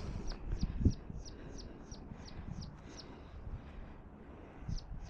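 A small bird singing a run of short, high notes, each falling in pitch, about three a second; it pauses after about three seconds and starts again near the end. A single low thump comes just under a second in, over a low rumble.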